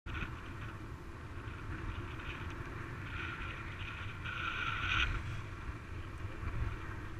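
Ride noise in an open-air gondola cabin: a steady low rumble with wind hiss that swells for a couple of seconds midway.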